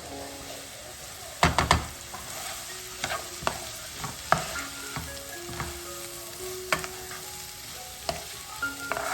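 Kitchen clatter: a quick cluster of knocks about one and a half seconds in, then single clinks and knocks every second or so, over a steady hiss, with soft melodic background music.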